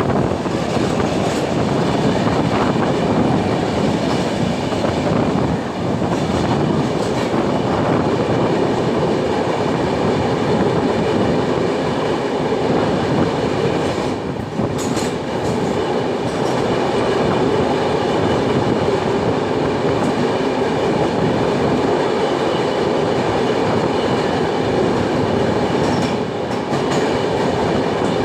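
Indian Railways passenger train running at speed, heard from on board: a steady, loud rumble of wheels on rails with a clickety-clack rhythm. Brief sharp clanks come about halfway through and again near the end.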